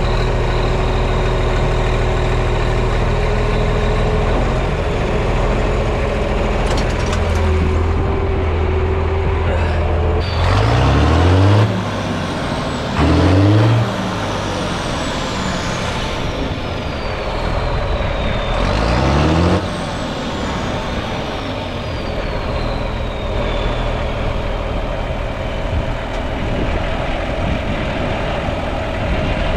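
Diesel tractor engine running steadily, then revved up sharply three times in the middle, each rev rising quickly in pitch. After the later revs a high whistle falls slowly away.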